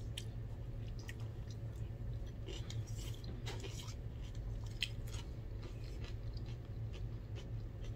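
A person chewing a cucumber and tomato salad, with scattered small clicks of a fork against a plastic bowl, over a steady low hum.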